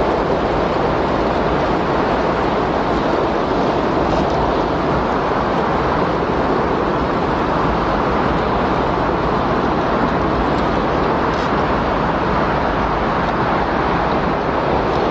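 Windstorm recording: a steady rush of wind at an even level, without gusts or breaks.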